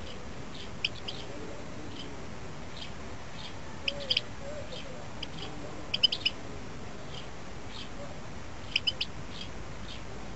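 Small birds chirping in the background: short high chirps, several in quick clusters of two or three, with fainter single chirps between, over a steady background hiss.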